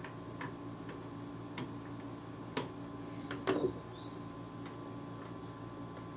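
Scattered light clicks and taps, about seven in all, from hard plastic and metal parts of a PS3 being handled during disassembly, over a faint steady hum.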